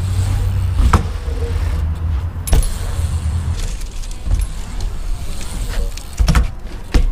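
BMX bike being ridden on hard ground: a steady low rumble with a few sharp knocks, about four in all.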